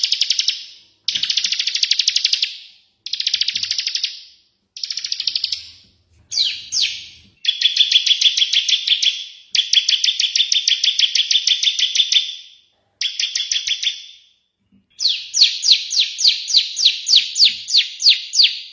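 Small songbirds from a bird-keeping song-tutor recording, giving rapid, high, chattering trills in repeated bursts. There are about eight bursts with short gaps between them, one of them lasting about five seconds in the middle. Near the end comes a run of sharper separate chirps, about four a second.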